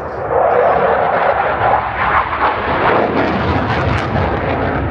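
Fighter jet passing overhead: loud jet engine noise that swells about a third of a second in and stays loud.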